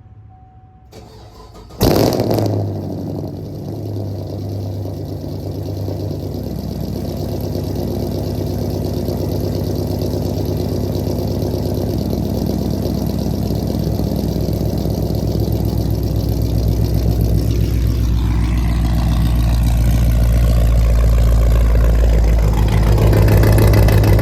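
Straight-piped Chevrolet Camaro 2SS V8 with catless headers and no mufflers or resonators, cranked briefly and firing up with a loud flare, then running at a loud, steady idle. Late on the engine note wavers up and down and grows a little louder.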